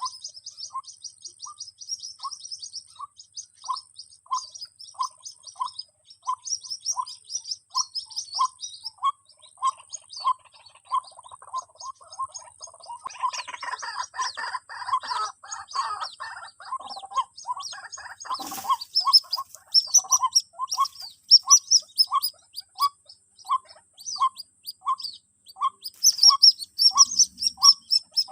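White-breasted waterhen chick calls played from an MP3 lure: short peeps repeating evenly a little over once a second, with quick high twittering above them. About halfway through, a louder, busier stretch of calling, followed by one sharp click.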